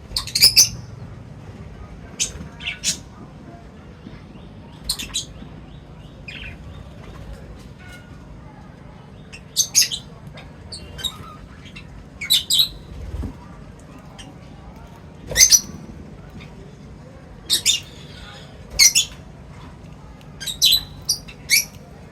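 Small birds giving short, sharp, high chirps, one every second or two, irregularly spaced, over a faint steady low hum.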